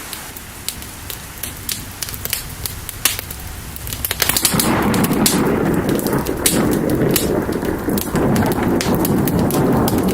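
Steady rain mixed with a crackling fire, sharp pops and snaps scattered throughout. About four seconds in, a louder, fuller rushing swells in and holds.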